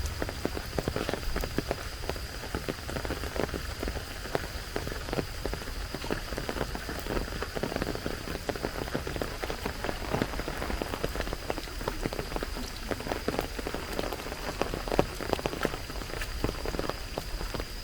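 Rain falling, a dense patter of drops striking nearby surfaces over a steady hiss. A thin, faint high tone holds steady underneath.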